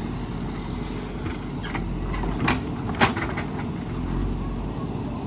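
JCB 3DX backhoe loader's diesel engine running steadily, with two sharp knocks about two and a half and three seconds in, the second the louder.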